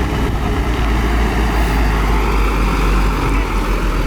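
Heavy diesel engine of earth-moving machinery running steadily with a loud, deep rumble.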